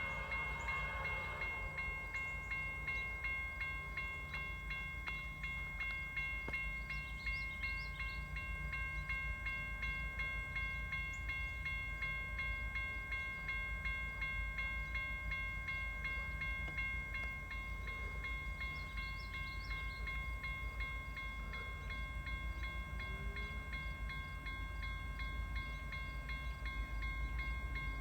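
Train rolling past at close range: a steady low rumble of wheels on rail, with a few steady high tones held above it.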